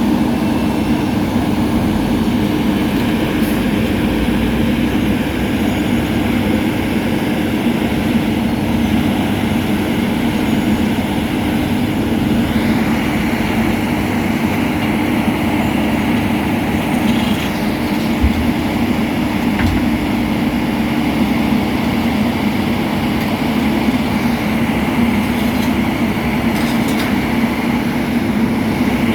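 Heavy diesel road-construction machinery running steadily with a constant low hum. A higher whine joins about twelve seconds in.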